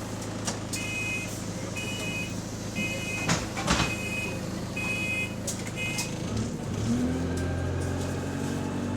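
Bus engine idling while the door warning beeps sound about once a second, with the doors thudding shut partway through. Near the end the engine's note rises as the bus pulls away.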